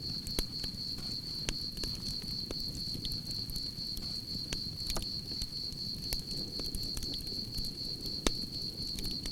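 Campfire crackling, with irregular sharp pops over a low rumble of burning wood. Crickets chirp in a steady, high, unbroken trill behind it.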